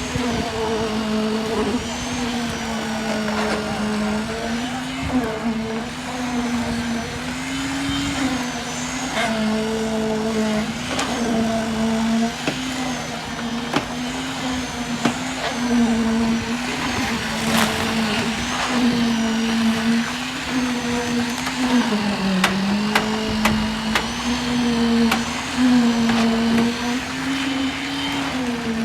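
Machinery on a concrete pour running with a steady motor hum that dips and rises in pitch every second or two as its load changes. Scattered knocks and clanks are heard over it.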